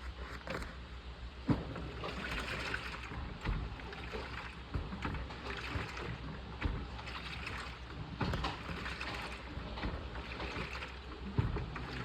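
Washing machine in its wash phase: water sloshing in the drum in repeated surges over a steady low motor hum, with occasional knocks.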